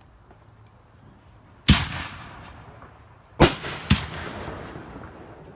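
Aerial fireworks bursting: three loud bangs, one a little under two seconds in and two close together about halfway through, each trailing off afterwards.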